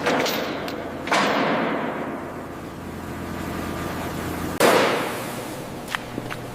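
Two heavy thuds about three and a half seconds apart, each trailing off in a rush of noise over about a second, then two light clicks near the end.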